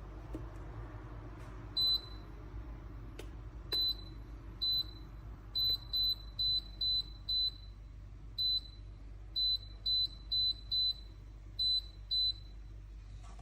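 Electric kettle's control panel giving a run of about sixteen short, high beeps, all at one pitch and unevenly spaced, with a single click about three seconds in.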